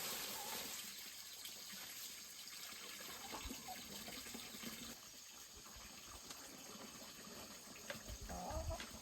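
Water running and splashing, loudest at first and thinning out after a few seconds, with a few soft low knocks near the end.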